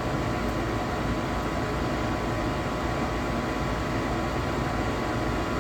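A 90% gas furnace running steadily during its ignition sequence: the draft inducer fan makes a constant whooshing hum with a faint steady whine over it, while the hot surface igniter glows.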